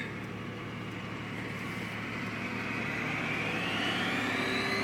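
Porsche 911 Turbo (997) twin-turbo flat-six engine heard from inside the cabin as the car accelerates. A steady drone carries a whine that rises in pitch and grows louder over the last couple of seconds.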